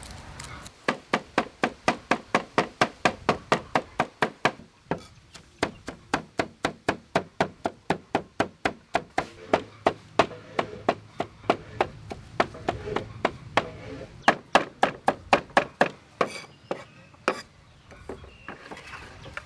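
Knife chopping food on a cutting board in a steady run of sharp strokes, about three or four a second, with a couple of short pauses, stopping near the end.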